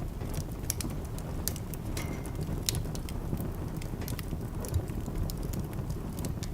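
Wood fire burning in a fireplace: a steady low rumble of flames with irregular crackles and pops from the burning logs.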